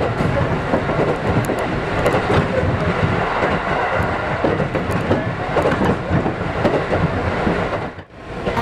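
Running noise heard from inside an electric local train at speed: a steady rumble with the clickety-clack of the wheels over the rail joints. The sound fades out briefly near the end and comes back.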